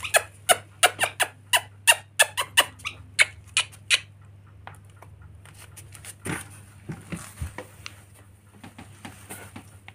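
Pet lory giving a quick run of short squeaky calls, about three a second, that stops about four seconds in; fainter scattered sounds follow.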